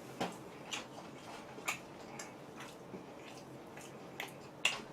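Close-miked chewing of chewy kebab bread: soft mouth clicks and smacks, about half a dozen scattered irregularly, the sharpest near the end.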